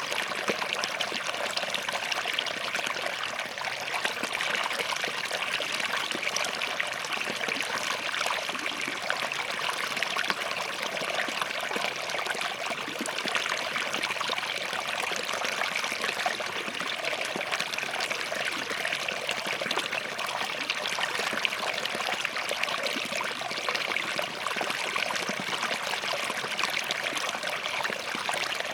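Small forest stream flowing and trickling between rocks, a steady babble of many small splashes and gurgles.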